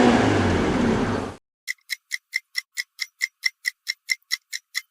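A high-revving Honda car engine, its pitch falling, cuts off abruptly about a second and a half in. Then a clock-like ticking follows, between four and five ticks a second, a countdown timer.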